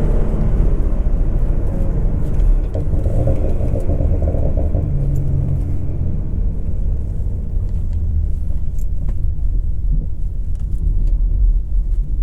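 A 2011 Ford Mustang's 3.7-litre V6 running at low revs while the car drives at easy speed: a steady low rumble of engine and road noise, with the engine note falling at the start and shifting briefly now and then.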